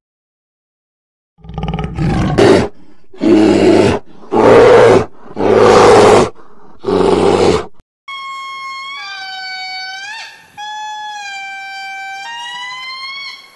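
A large animal roaring five times in loud, harsh bursts about a second apart. From about eight seconds a long, high tonal wail follows, its pitch sliding between held notes.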